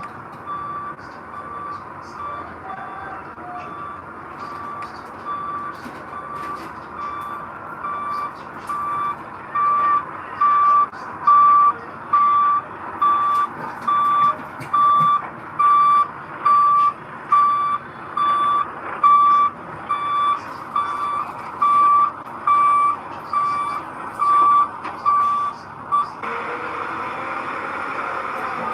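Truck reversing alarm beeping about once a second over a running diesel engine, growing louder for a while and then stopping a couple of seconds before the end, when the engine noise swells.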